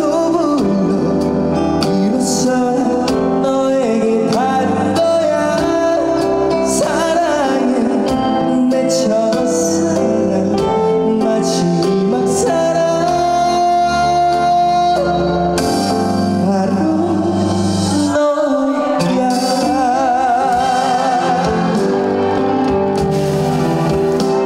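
A male trot singer singing a slow song live with band accompaniment, holding notes with vibrato. The music dips briefly about 18 seconds in, then goes on.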